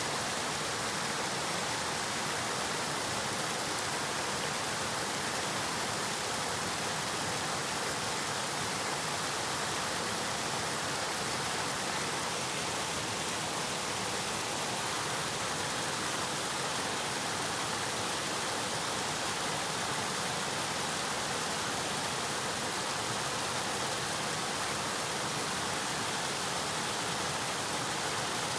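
River water flowing and rushing, a steady, even hiss with no breaks or distinct events.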